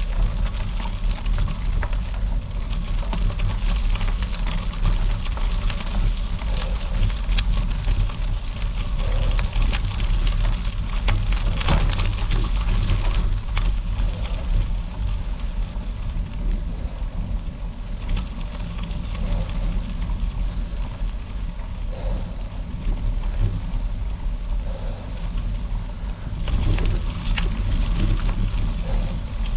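Bicycle tyres rolling over a gravel road with scattered crackles, under steady wind rumble on the microphone.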